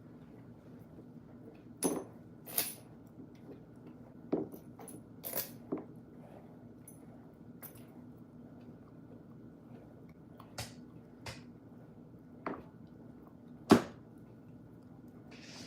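About a dozen light, sharp clicks and clinks at irregular intervals, the loudest near the end, over a faint steady hum, as a dog is being brushed.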